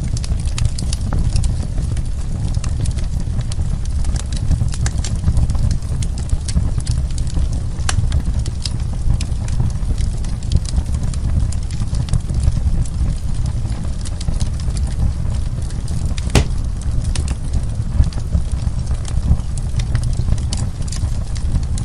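Wood fire burning in a fireplace, with a steady low rumble and constant small crackles and pops of burning wood. One sharper pop comes about three quarters of the way through.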